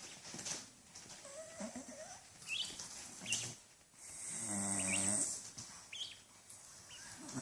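A bird making a low, buzzing rasp for a little over a second, about four seconds in, with a few short, high, upward-sliding chirps before and after it.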